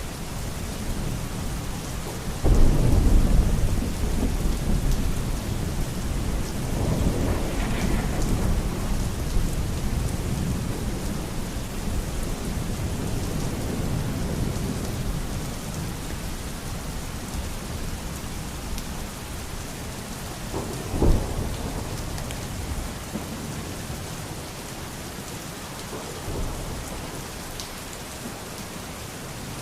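Steady rain with thunder. A loud clap about two and a half seconds in rumbles on for several seconds, and a shorter, sharper crack comes about twenty-one seconds in.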